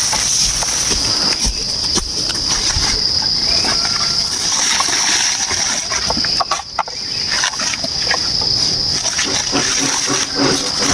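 A steady, high-pitched drone from a chorus of rainforest insects, dipping briefly about two-thirds of the way through, with scattered light clicks and knocks over it.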